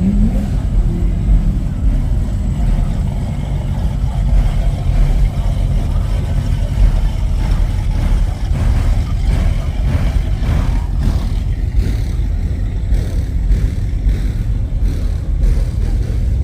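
Car engines running with a steady low rumble, with faint voices under it.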